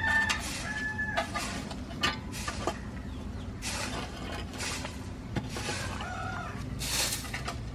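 Chickens clucking, with a few short held calls near the start and again about six seconds in, over repeated short scratchy noises.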